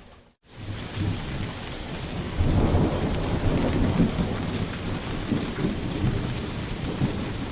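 Steady heavy rain, with a low rolling rumble of thunder that swells about two and a half seconds in and keeps on. The sound cuts out completely for a moment right at the start.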